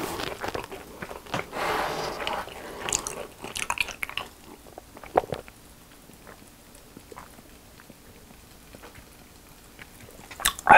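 Close-miked chewing of a fried cheese snack, with wet mouth clicks and crunches, for the first few seconds. Then quiet drinking sips and swallows from a mug, with small scattered clicks.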